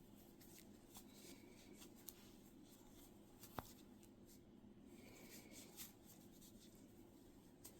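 Near silence: faint rustling and small ticks of a crochet hook working yarn, with one sharper click about three and a half seconds in, over a steady low room hum.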